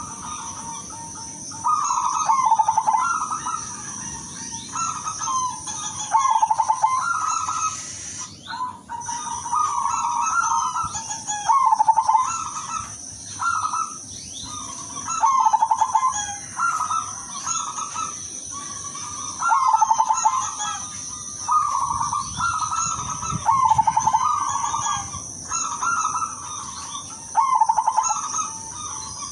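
A silver perkutut (zebra dove) cooing: short, trilling coo phrases repeated about every two seconds. A steady high-pitched tone runs underneath and breaks off briefly about eight seconds in.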